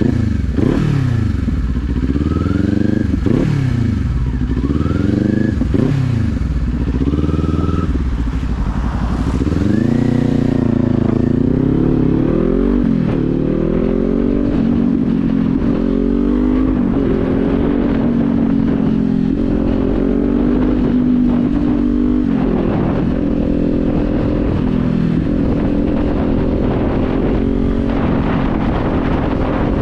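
Kawasaki Z400 parallel-twin engine accelerating through the gears, its pitch dropping and climbing again at each shift for the first several seconds. It then holds a steady cruising pitch.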